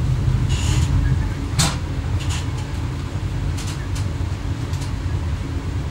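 Inside the driver's cab of an X11 electric multiple unit: a steady low rumble and hum from the train, with a few sharp clicks and knocks scattered through it.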